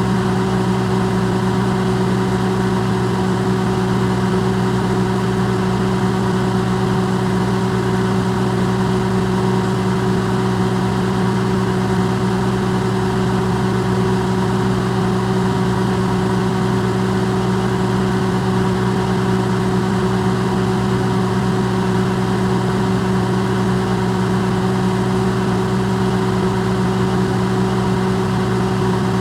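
Electrolux microwave oven running, recorded close up and amplified: a steady, unchanging low hum with a few fainter higher tones over a soft hiss.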